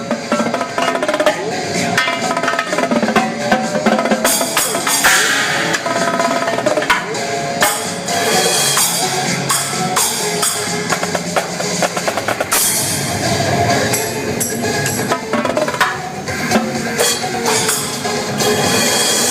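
Live drum kit, Mapex drums and Paiste cymbals, played over DJ dance music: fast drum hits and fills, with cymbal crashes ringing out about four seconds in and again around twelve seconds.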